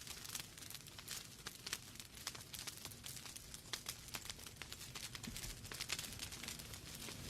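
Wood fire burning in a fireplace: logs crackling and popping in quick, irregular snaps over a low, steady rumble of the flames.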